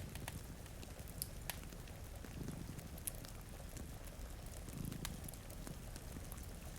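Layered cozy ambience: a wood fire crackling with sharp scattered pops over a steady hiss of rain, and a cat's low purr swelling and fading about every two and a half seconds with its breathing.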